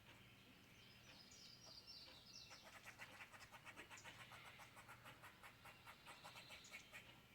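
Faint high chirping of small animals: a few falling chirps, then a rapid chirping that repeats several times a second.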